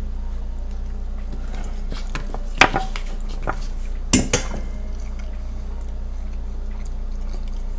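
A metal fork clattering against a plate and table as it is dropped: two sharp clinks, about two and a half and four seconds in, the second one the louder.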